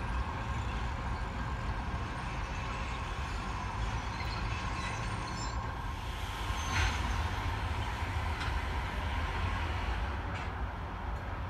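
A diesel-hauled passenger train passing at a distance: a steady low rumble with a faint held tone above it, and a few sharp clicks from about the middle on.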